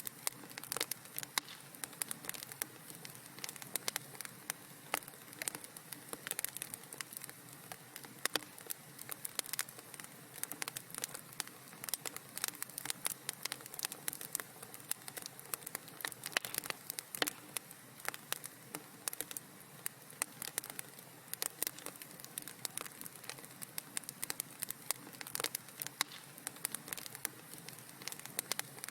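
Wood fire burning in a fireplace, crackling with a dense run of irregular sharp pops and snaps over a soft steady hiss.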